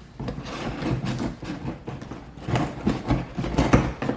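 A large cardboard shipping box being handled and opened, with a string of irregular knocks, scrapes and rustles of cardboard and tape.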